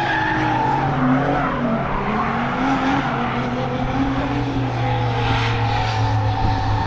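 Drift cars running on the track, engines revving up and down with tyres skidding, over a steady low engine hum.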